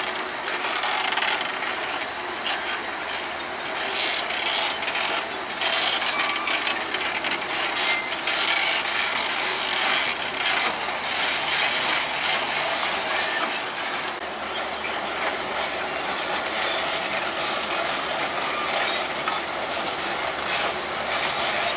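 Bulldozer at work: continual clatter, squeak and scraping, typical of steel crawler tracks and dirt, over the machine's running.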